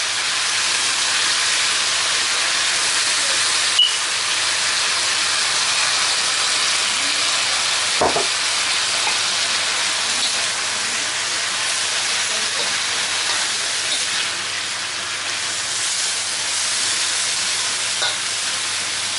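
Chicken strips and sliced peppers sizzling steadily in a hot wok, with soy sauce just poured in, as they are stirred. There is a short click about four seconds in and a single knock about eight seconds in.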